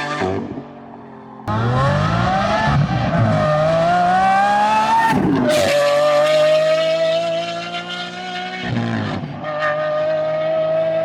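Loud, high-pitched sports car engine under hard acceleration. After a brief lull it revs up in a long rising climb, drops sharply at a gear change about halfway, then holds a high note that dips once more briefly near the end.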